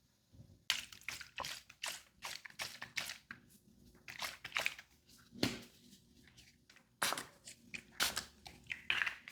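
Close-miked crisp taps, clicks and crackles from makeup products and tools being handled on a mannequin face, starting under a second in and coming in quick irregular runs, with a short lull about six seconds in.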